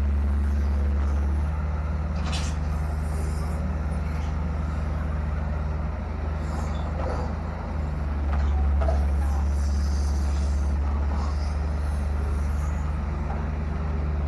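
Excavator's diesel engine running steadily. It eases off a little past halfway, then comes back louder about two-thirds of the way through.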